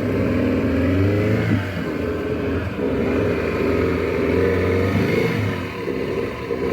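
Motorboat engine running steadily under way, its pitch shifting up and down a little.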